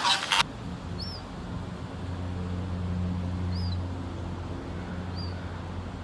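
A few short, high chirps from a small bird, spaced one to two seconds apart, over a steady low hum; the last of a goose's loud honking cuts off just before them.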